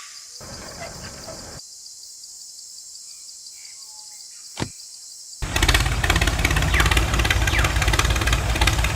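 A single sharp click, then the small motor of a homemade model tractor switches on about five seconds in and keeps running loudly with a fast, buzzing rattle.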